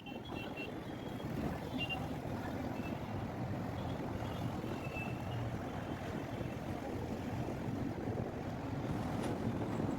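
Road traffic: a steady rumble of vehicle engines and tyres, with a few faint short high tones now and then.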